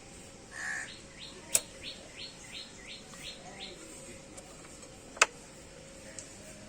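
A bird calling a quick run of short rising chirps, about three a second, with two sharp clicks, one about a second and a half in and a louder one about five seconds in.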